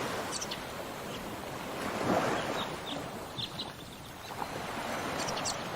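Surf and wind ambience, a steady rushing that swells briefly about two seconds in, with a few short high chirps over it.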